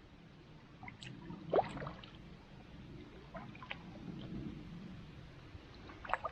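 Water sloshing and dripping with scattered clicks and knocks, the loudest a sharp click about one and a half seconds in and a few more near the end.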